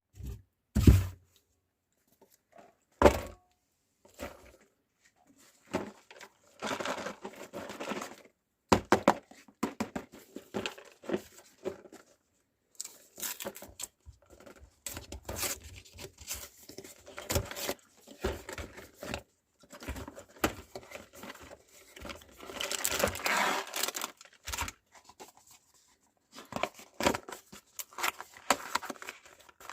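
Almond biscuits being crushed in a meat grinder: irregular crunching and crackling of the breaking biscuit, most continuous toward the last third. A few separate sharp knocks come in the first few seconds.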